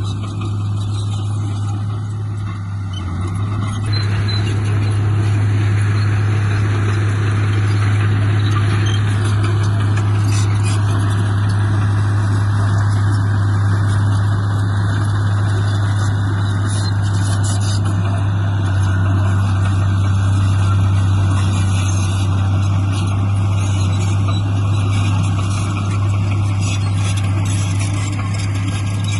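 Heavy diesel engine of earthmoving machinery running steadily under load, with a strong low hum, growing louder about four seconds in.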